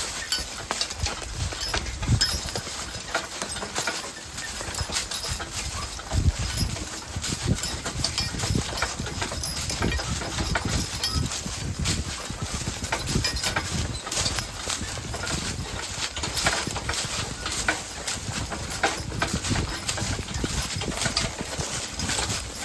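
A team of draft horses walking, their hooves clopping in an uneven rhythm, with frequent sharp clicks and knocks.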